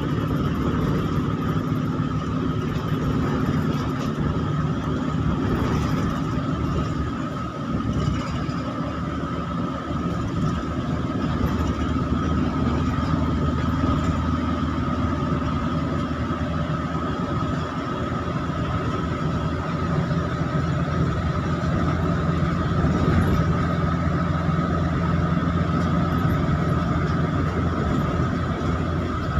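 Bus running steadily at cruising speed in heavy rain: a low engine drone with a thin steady whine above it, over a continuous hiss of rain and wet road.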